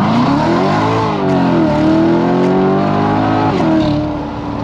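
Corvette Z06's V8 accelerating hard, its pitch climbing through the revs, dipping once about a second and a half in at an upshift, climbing again, then dropping sharply near the end as the throttle comes off.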